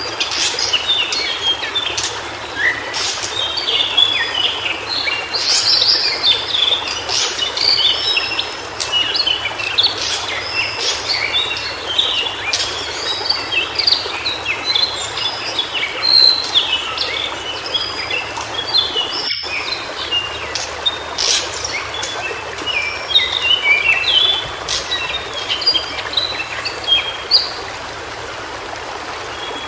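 White-browed shortwing (Brachypteryx montana) singing a rapid jumble of short, high chirping notes over the steady rush of a stream. The song stops a couple of seconds before the end, leaving the stream.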